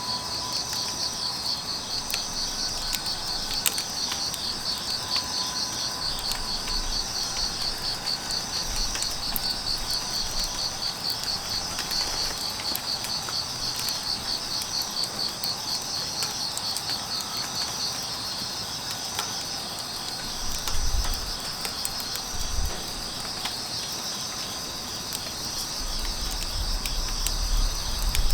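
Crickets chirping steadily in a rapid, pulsing rhythm, with scattered small crackles from burning firewood. A couple of soft low thuds come about two-thirds of the way through.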